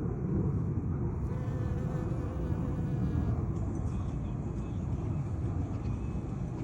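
Bees buzzing: a steady low hum with no breaks.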